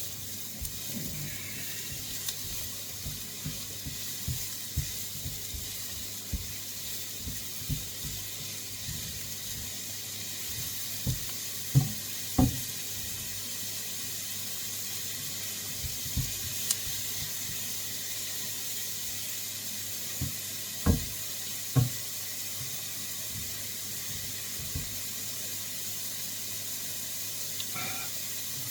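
Onions and vegetables sizzling steadily in a wok, with scattered soft low knocks; the loudest knocks come about twelve seconds in and twice around twenty-one seconds in.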